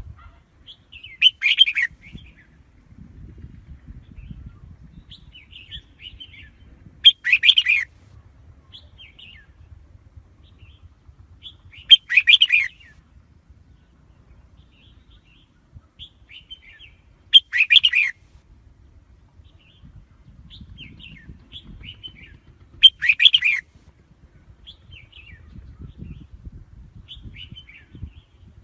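Red-whiskered bulbul singing: five loud, short song phrases spaced about every five and a half seconds, with softer short chirps between them.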